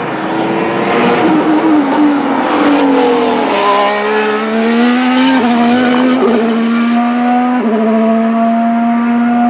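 Formula 1 car's turbocharged V6 hybrid power unit running at high revs on track, its pitch falling over the first few seconds, then climbing slowly with sudden drops at each upshift as it accelerates.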